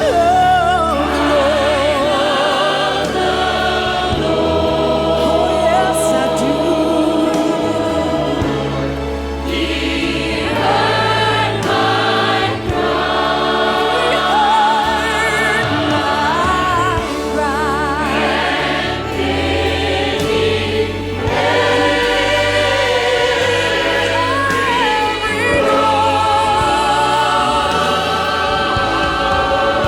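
Worship song sung by a group of voices with instrumental accompaniment, the sung lines wavering with vibrato over a steady bass.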